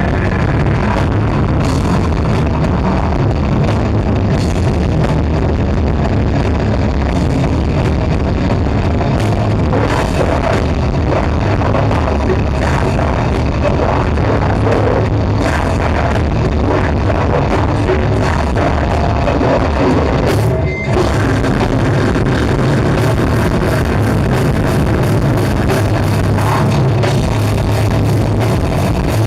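Rock band playing loudly live, dense and continuous, with a momentary break about two-thirds of the way through.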